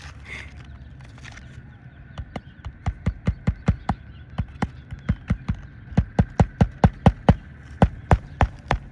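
Hammer driving roofing nails into asphalt shingles. Quick runs of sharp strikes, about three to four a second with short pauses, start about two seconds in.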